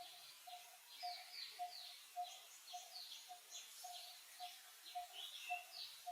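Wild birds calling: one repeats a short, even note about twice a second, while others give quick falling chirps over it.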